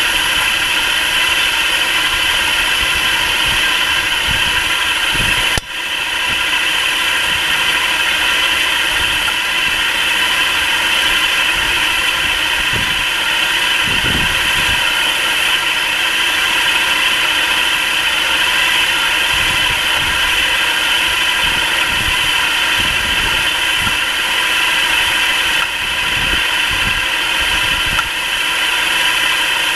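Nissan March K13 engine running, with the knocking under the hood that the owner says persists until the engine warms up. There is a brief drop in level about five and a half seconds in.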